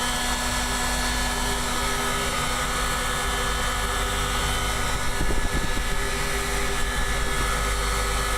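Steady whir and hum of two electric heat guns blowing hot air to thaw an iced-up walk-in freezer evaporator, with fan hum underneath.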